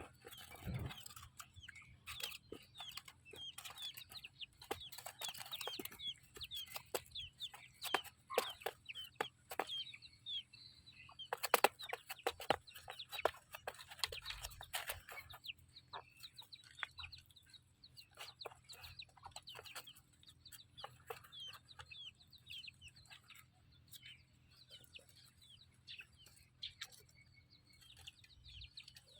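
A brood of newly hatched chicks peeping, many short high chirps overlapping, with clucking. There are a few louder scuffs or knocks around the middle.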